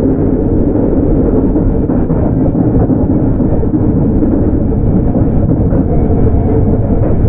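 Sotetsu 8000 series electric train (Hitachi GTO-VVVF) running at speed, heard inside the car: a steady, loud rumble of wheels on rail with no change in pace.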